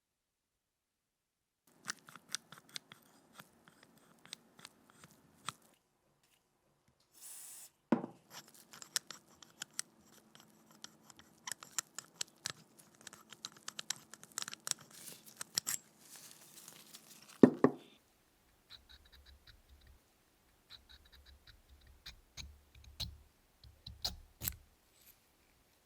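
Workbench handling sounds: a long run of small clicks, taps and scrapes of tools and metal parts over a faint hum, with a louder knock about eight seconds in and another near seventeen seconds.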